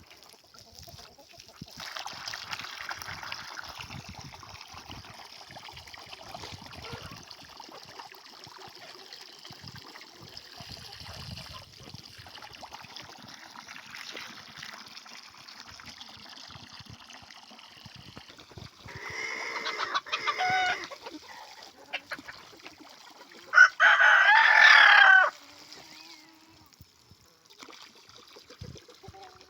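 Chickens clucking in a flock, with a rooster crowing twice in the second half; the second crow is the loudest sound.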